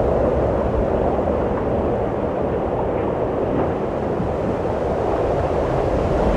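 Wind blowing steadily: a low rushing that eases a little midway and swells again near the end.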